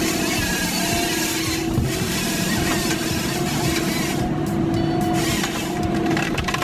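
Forestry harvester running steadily, its engine and hydraulics giving a constant whine over a dense mechanical noise.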